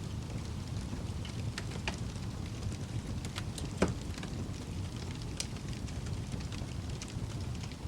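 Wood fire in a fireplace crackling: a steady low rumble of flames with scattered small snaps, and one louder pop near the middle.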